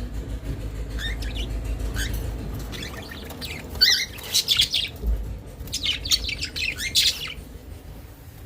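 Caged budgerigars chirping in quick clusters of high, rapid notes, loudest about halfway through and again near the end, over a low hum that fades about three seconds in.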